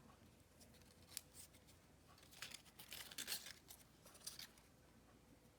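Faint handling of small paper pieces: a few short rustles and snips of cardstock, clustered about a second in, between two and a half and three and a half seconds in, and once more near the end.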